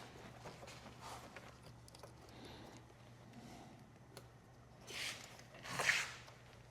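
Hands working on a sportbike's fuel tank and wiring: faint rustling and small clicks, with two louder brushing, scraping noises about five and six seconds in, over a steady low hum.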